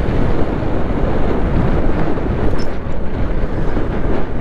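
Wind rushing and buffeting over the microphone of a moving motorcycle, a steady loud rush with the bike's riding noise underneath.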